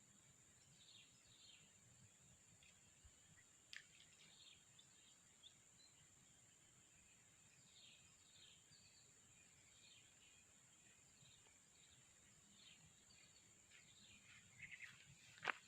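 Faint birdsong: short, downward-sliding chirps repeating now and then over a steady high drone, with a sharp click near the end.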